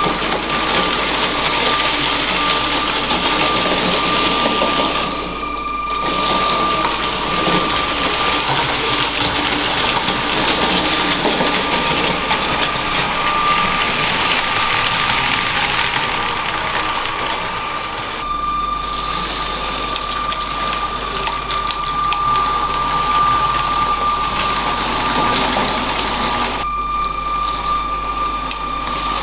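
LEGO train running on plastic track: a steady high whine from its electric motor over the rattle of wheels on the track. The rattle dips and returns a few times as the train works round the layout.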